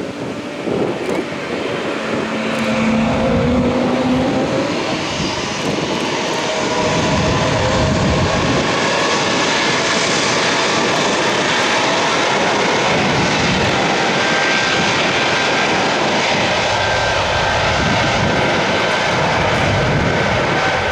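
Aircraft engine noise from a fixed-wing plane close by, building over the first several seconds and then holding loud and steady.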